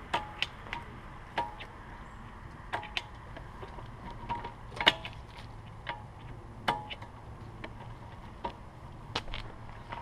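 Irregular sharp clicks and clinks, some with a brief ring, over a low steady hum; the loudest is about five seconds in.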